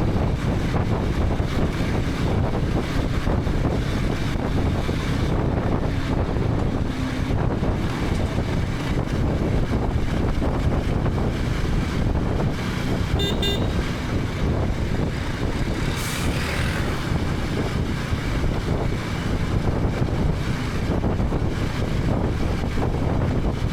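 KTM 250 Adventure's single-cylinder engine running steadily on the move, mixed with heavy wind rush on the helmet camera's microphone and road noise. A short high-pitched beep sounds a little past halfway.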